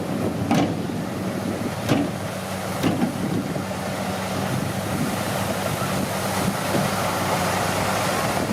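Komatsu D41P bulldozer's diesel engine running steadily, with a few sharp knocks in the first three seconds.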